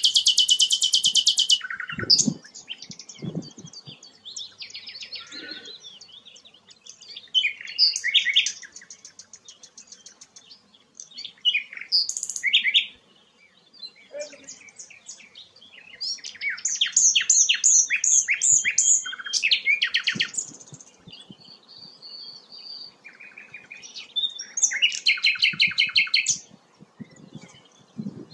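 Songbird singing a varied song of rapid, loud trills and short whistled phrases, in several bouts with brief pauses between them.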